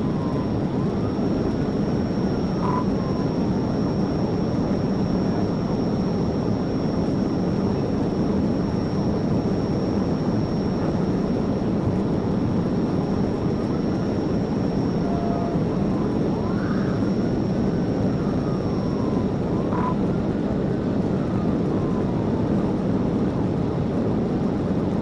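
Steady engine and road noise of a police cruiser driving fast in a pursuit, heard from inside the car. Behind it a siren wails faintly, rising and falling again and again, and a thin high whine runs throughout.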